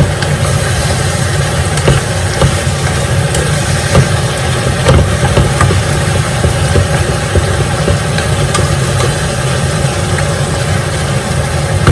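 Chicken fat sizzling in a cooking pot, with scattered crackles and pops over a steady low rumble.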